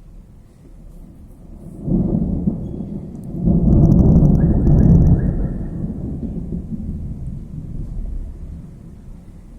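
Thunder: a crack about two seconds in, swelling a second and a half later into a loud, deep rumble that rolls on and slowly dies away.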